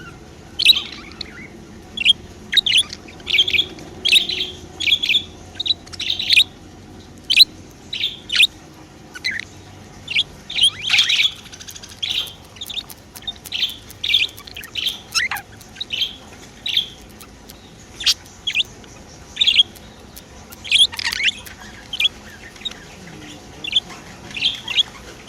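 Pet budgerigars chirping: a busy run of short, high chirps and warbles, several a second, with a few louder, longer calls.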